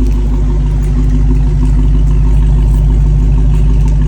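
Dodge Charger Hellcat's supercharged V8 idling steadily on its stock exhaust, a loud, even low drone.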